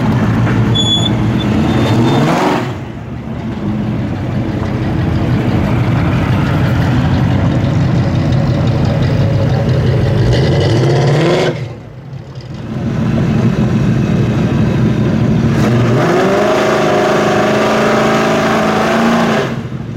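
V8 muscle car engine revving and pulling hard, its pitch climbing and then breaking off sharply three times: about two seconds in, near the middle, and near the end.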